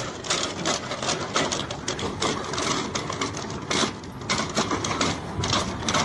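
Rapid, irregular mechanical clatter: many sharp clicks and rattles a second, continuing without a break.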